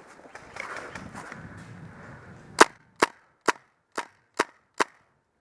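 Airsoft gun firing six semi-automatic shots, sharp cracks at about two a second, after a couple of seconds of rustling.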